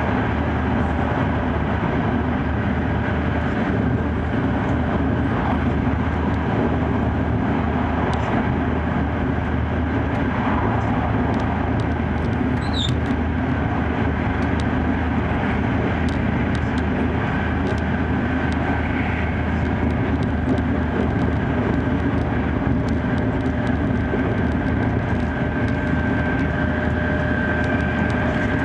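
E5 series Shinkansen running, heard from inside the passenger car: a steady rushing rumble of wheels on rail and air along the body. A faint high whine grows a little in the second half, and there is one brief high squeak about halfway through.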